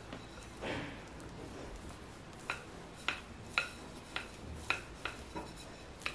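A metal utensil clinking against dishware in a kitchen: a soft scrape about a second in, then a run of sharp, ringing clinks about twice a second, as in stirring or tapping in a bowl.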